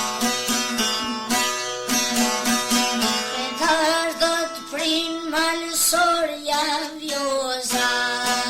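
Albanian folk song: a plucked string instrument plays a quick run of notes, and a young singer's voice carries a wavering, ornamented line from about three and a half seconds in until near the end, when the instrument continues alone.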